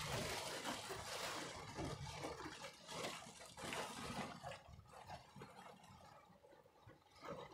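Heavy rain on a car, an even hiss with patter, fading away about halfway through.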